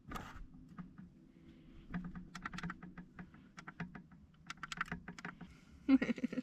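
A run of light, irregular clicks and taps in short clusters, with a louder cluster near the end, over a faint low hum.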